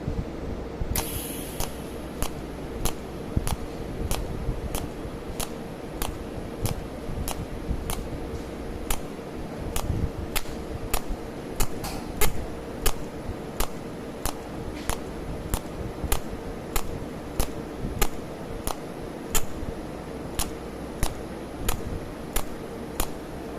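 SZ-GCS03 PLUS cold welding machine pulse-welding galvanized sheet: a sharp tick at each welding pulse, about two a second, over a steady hum.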